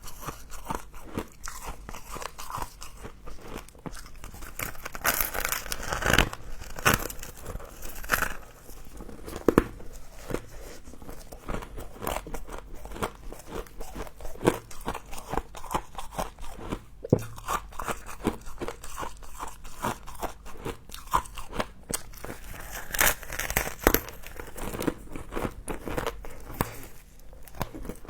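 A person biting and chewing crunchy frost close to the microphone: a dense, uneven run of crisp crunches, with louder bites here and there.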